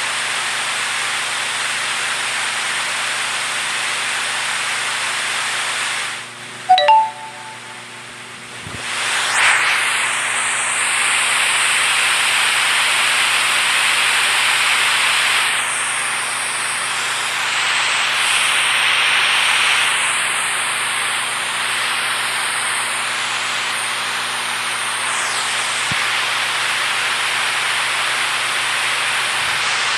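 Rushing water, a steady hiss like a stream or waterfall. About six seconds in it drops away for about three seconds, with a brief pitched sound in the gap. It then comes back louder and runs on with small shifts in its tone.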